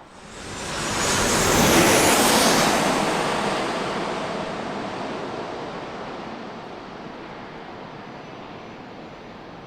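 Jet airliner passing close by on landing approach. Its engine noise swells quickly to a peak about two seconds in, with a high whine that falls in pitch as it goes past. Then a rumble slowly fades away.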